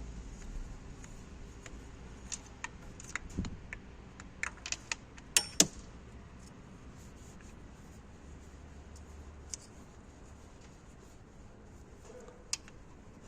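Scattered sharp clicks and knocks of hand tools on the engine, a cluster a few seconds in with the loudest two about five and a half seconds in, then two single clicks later. They come as a compression tester is moved to and fitted in the second cylinder's spark plug hole, over a low hum.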